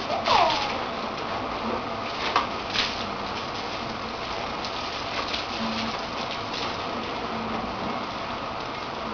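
Water spraying steadily on a car in a car wash, with a short falling squeak near the start and a few sharp knocks in the first three seconds.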